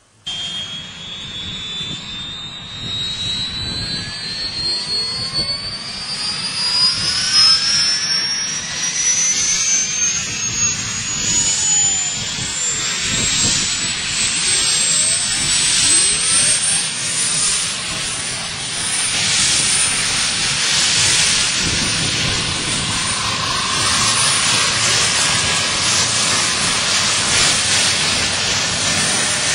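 Bell UH-1H Huey helicopter's Lycoming T53 turboshaft engine starting up: a high turbine whine rising steadily in pitch for about seventeen seconds, then holding steady as the beating of the rotor builds underneath.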